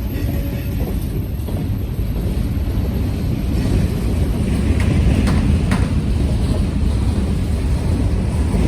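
BNSF train rolling by with a steady low rumble that grows a little louder about four seconds in, with two brief clicks near the middle.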